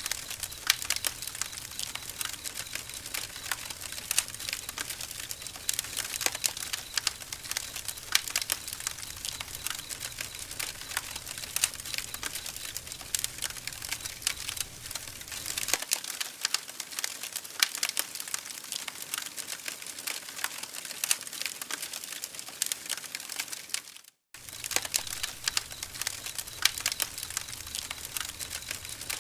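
Wood campfire crackling: a dense, irregular run of sharp snaps over a soft hiss. The sound cuts out for a split second about 24 seconds in.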